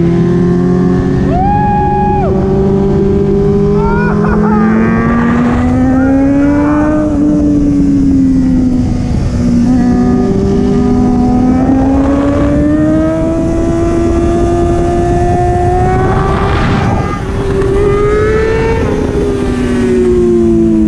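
Sport motorcycle engine running under way, its pitch rising and falling with the throttle through the bends, over steady wind and road rush.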